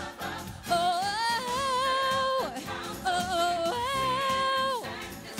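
Gospel song: a singer holds two long, wordless notes over instrumental backing, the first from about a second in, the second ending near the end.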